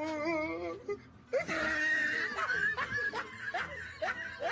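A person laughing hard: a wavering laugh at first, then breathy, squealing laughter with short gasps, which cuts off suddenly at the end.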